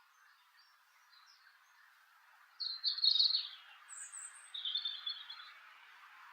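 Small garden birds calling: faint chirps at first, then a few short, louder chirping calls in the second half, over a faint steady hiss.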